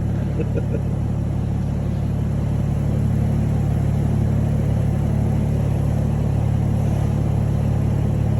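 Single-turbo BMW M4's straight-six idling steadily, with an even low hum.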